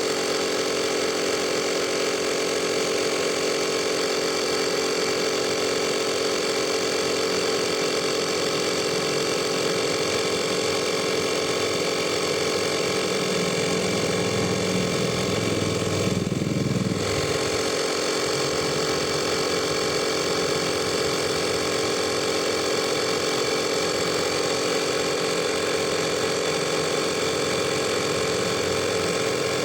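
Portable 12 V tyre inflator (air compressor) running steadily with a constant buzzing drone, pumping air into a car tyre, then switched off at the end. A deeper rumble swells briefly about halfway through.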